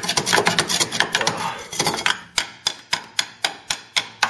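A metal tool rapidly tapping and knocking at a Ford Cortina Mk3's rusted chassis leg, settling into steady strikes about four a second in the second half. The chassis leg is rotted through.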